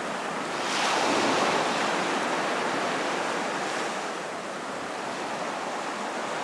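Surf on a beach: a wave breaks about a second in and washes back out over a steady hiss.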